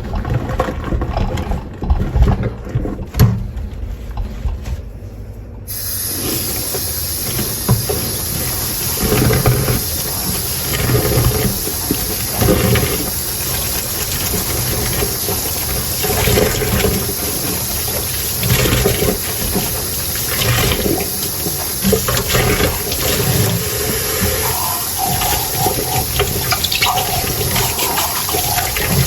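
Dishes clinking at a kitchen sink, then about six seconds in the tap is turned on and water runs steadily into the sink as dishes are washed under it, with clinks and knocks of crockery through the water.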